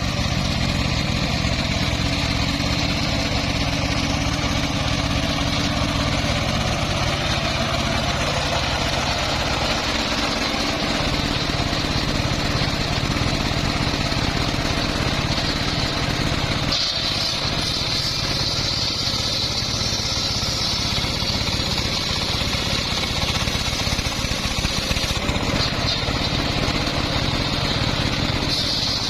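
Engine-driven homemade circular sawmill running steadily, its engine note shifting lower partway through and a high whine from the blade coming up strongly a little past halfway.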